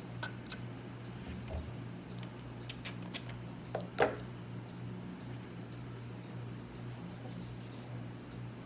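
Quiet handling sounds: beard oil being rubbed between the fingers, with a few light clicks, a sharper one about four seconds in, over a steady low hum.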